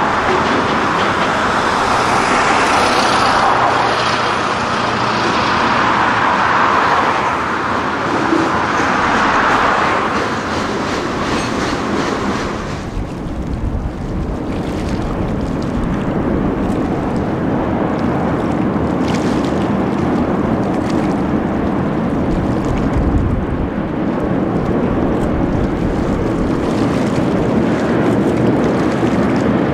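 Train passing close by, its wheels running and clattering on the rails. After about twelve seconds the sound drops to a lower, duller rumble.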